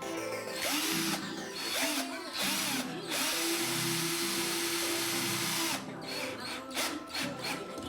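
Cordless screwdriver driving self-tapping screws into plasterboard sheets. Its motor runs in a few short bursts, then in one steady run of about two and a half seconds in the middle, over background music.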